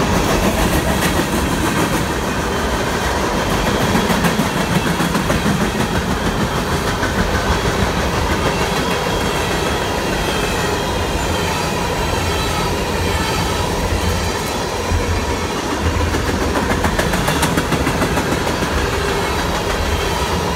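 Freight train of ethanol tank cars rolling steadily past a grade crossing, its wheels running over the rails with a rippling, repeating rhythm.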